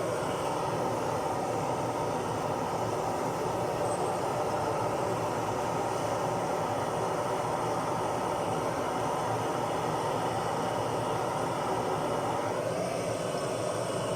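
Brazing torch flame burning steadily against a copper refrigeration pipe joint, an even rushing noise with no breaks.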